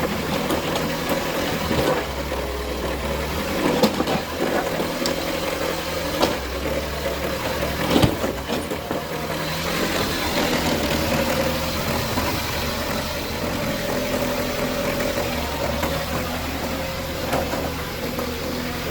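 Excavator's diesel engine running steadily, with a few sharp knocks of hard material on rock, about 4, 6 and 8 seconds in.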